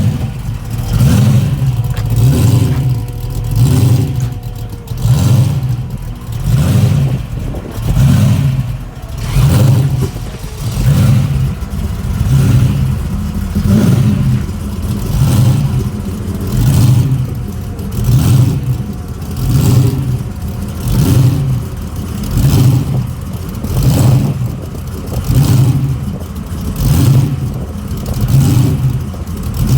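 Old Holden car engine running just after a cold start, its sound swelling and fading in a regular rhythm about once every second and a half.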